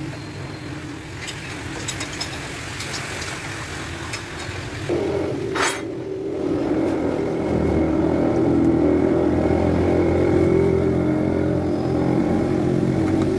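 A steady low hum over background noise, then a motor starts running about five seconds in, with a sharp click just after it starts. It grows louder and runs steadily from about seven seconds on.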